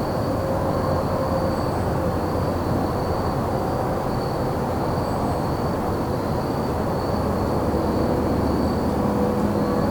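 Crickets chirping in a steady, unbroken high-pitched chorus over a continuous low rumble.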